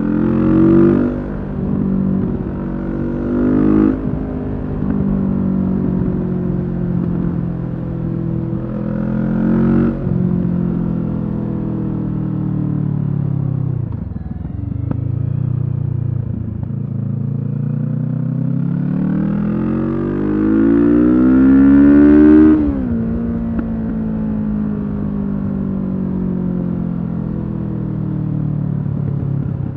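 Kawasaki Z650 parallel-twin engine through a Leo Vince EVO carbon exhaust, under way: revs climb and drop sharply at several gear changes, fall to low revs about halfway through, then rise steadily to their loudest point about three quarters through before dropping suddenly and settling to a steady run.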